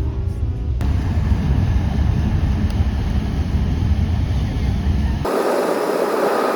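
Car driving through a road tunnel: a steady low road-and-engine rumble. Near the end the rumble gives way to a loud hiss for under two seconds.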